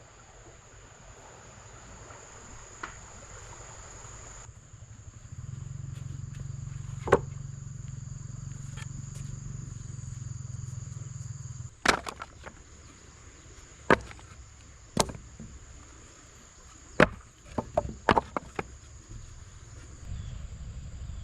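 A series of sharp knocks, about eight, irregularly spaced and bunched together near the end, over a steady high-pitched whine.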